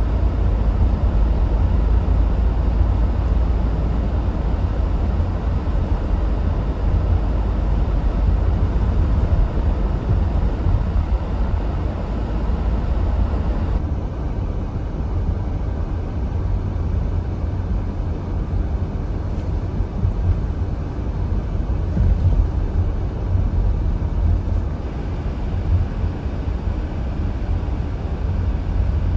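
Steady, deep rumble of a vehicle driving on a snow-covered road, engine and road noise with a hiss above it. The hiss dulls for about ten seconds from the middle.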